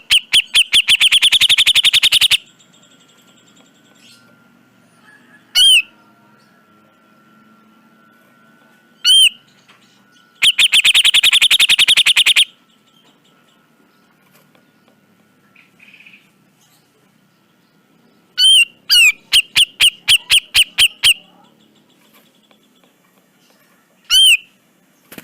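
Cucak jenggot (grey-cheeked bulbul) calling loudly: sharp single down-slurred notes, two rapid rattling trills of about two seconds each near the start and in the middle, and a looser run of repeated notes later on.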